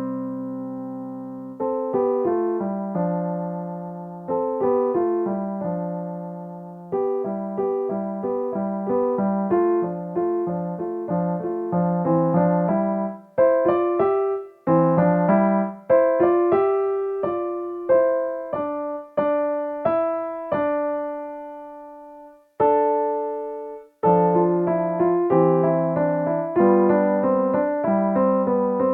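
Solo piano playing a slow original piece built on parallel intervals (sixths, tenths and thirds) over a bass accompaniment. The notes are struck and left to ring and fade, with a short break about two-thirds of the way through before the playing resumes.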